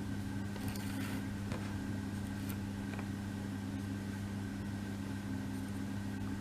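Steady low electrical hum with a faint higher whine, and a few faint clicks from small parts being handled.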